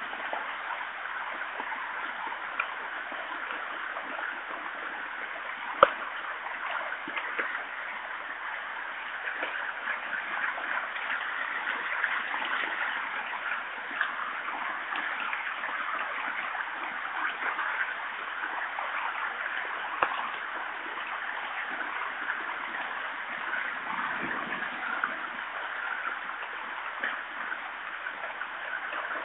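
Heavy rain pattering steadily on forest foliage and the ground, with two sharp ticks, the louder one about six seconds in.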